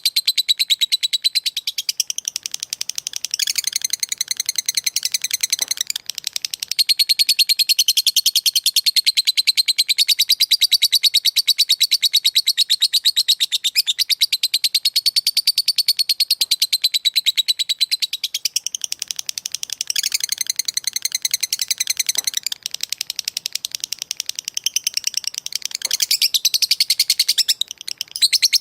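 Lovebird giving its long 'ngekek' chatter: an unbroken, very fast run of shrill, high-pitched notes, going on with only a few brief pauses.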